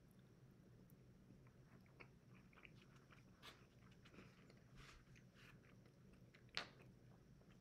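Faint chewing of a mouthful of food, with scattered small clicks of a fork in the bowl and one sharper click near the end.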